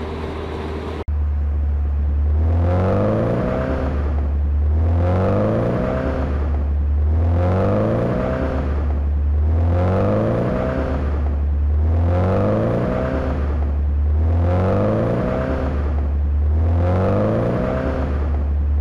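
Car engine accelerating in a rising sweep that repeats exactly about every two and a half seconds, like a short clip played in a loop. It starts abruptly about a second in, after a moment of steady road noise.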